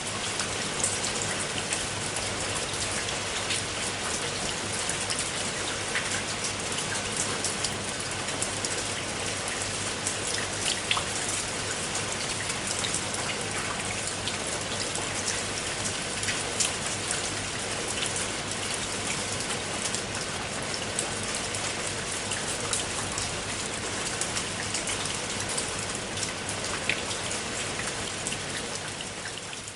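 Steady rain falling, a dense even hiss scattered with many sharp individual drop impacts, easing slightly near the end.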